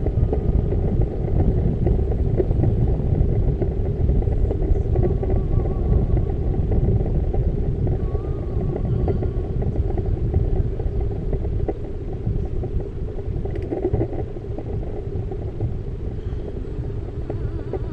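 Steady low rumble of wind buffeting the microphone and road noise while riding a bicycle, easing slightly in the second half.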